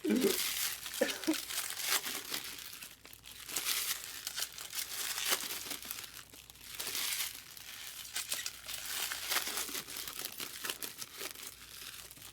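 Foil trading-card pack wrappers crinkling and tearing as packs are opened, an irregular run of crackles and rips.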